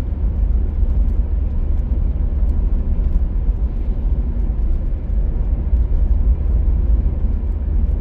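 Steady road noise of a car being driven, heard from inside the cabin: a constant low rumble of engine and tyres with an even hiss above it.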